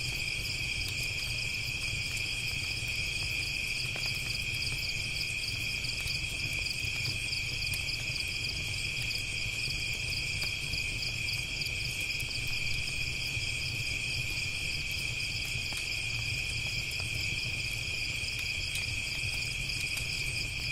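Chorus of crickets chirping steadily in several overlapping high pitches, with a low steady rumble underneath.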